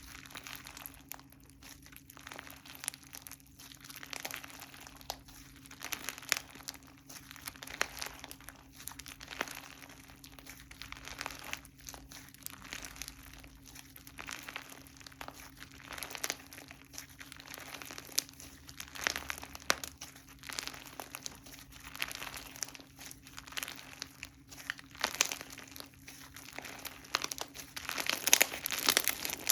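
Slime being squeezed, stretched and poked by hand, giving a continuous run of small crackling clicks and pops that grow louder near the end. A faint steady hum lies underneath.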